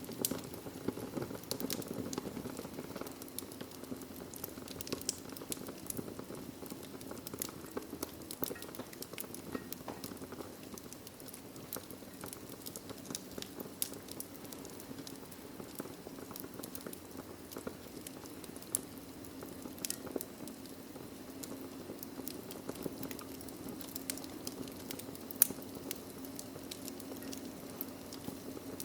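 Wood fire burning in a fireplace: a steady low rush of flame with irregular sharp crackles and pops, one louder pop near the end.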